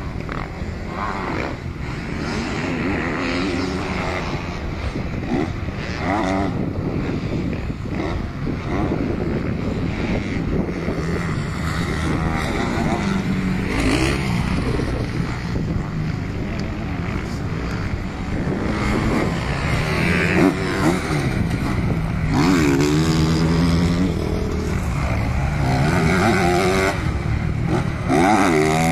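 Motocross bike engine revving up and down over and over as it is ridden round the track, the pitch climbing and dropping every few seconds.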